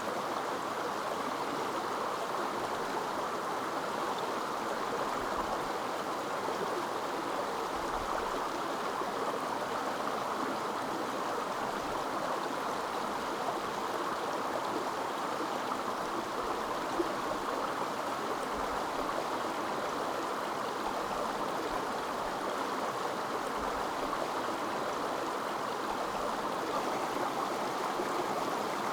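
A stream flowing steadily, an even rushing of water that holds at one level throughout.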